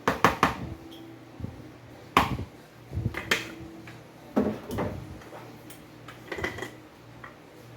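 Spice containers and their lids being handled on a kitchen counter: a quick cluster of sharp clicks and knocks at the start, then single ones every second or so, over a low steady hum.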